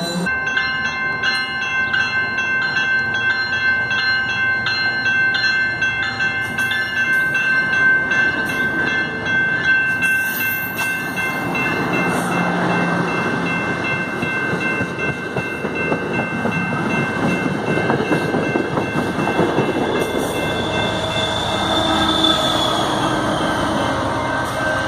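Grade-crossing warning bell ringing in an even beat of about two strikes a second while an MBTA commuter train passes; the rush and clatter of the coaches' wheels on the rails grows loud about halfway through, and the diesel locomotive pushing at the rear goes by near the end.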